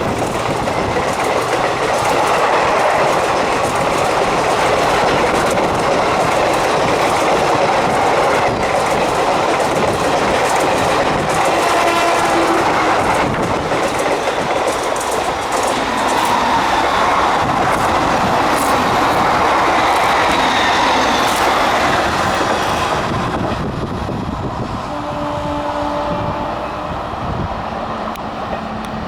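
Express passenger train rushing past at high speed: a loud, steady rush with wheels clattering over the rail joints, easing off after about twenty-three seconds.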